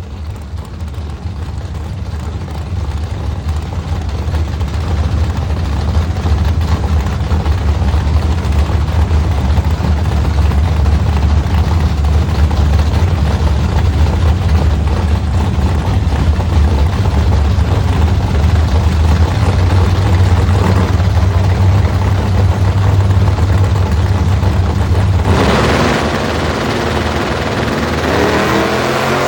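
A drag-racing car's engine idles with a heavy, steady low rumble that gets louder over the first several seconds. Near the end the sound changes and the engine begins to rev up as the car accelerates.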